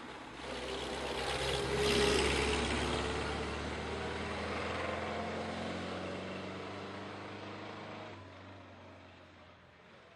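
Classic racing car's engine under load as the car drives past, loudest about two seconds in, then fading away.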